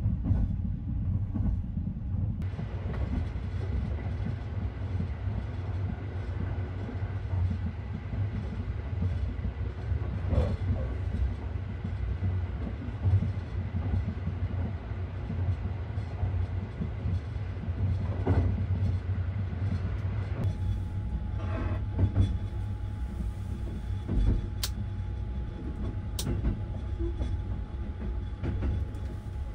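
Sunrise Express sleeper train running at speed, heard from inside the sleeping car: a steady low rumble of wheels and running gear on the rails, with a few brief sharp clicks in the second half.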